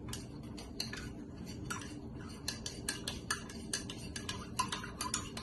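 A spoon stirring syrup into a drink, clinking quickly and unevenly against the inside of the cup, several light clicks a second.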